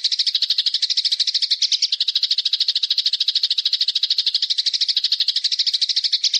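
A small songbird's fast, dry rattling trill, about thirteen notes a second, held evenly without a break, played as a masteran training recording for caged birds.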